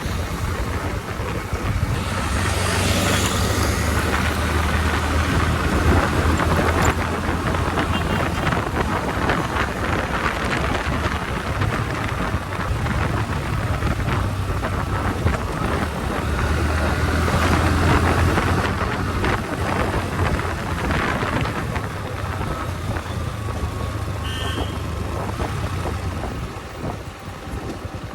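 Motorcycle engine running under way, with heavy wind and road noise on the microphone; the engine note swells and eases a little as the ride goes on.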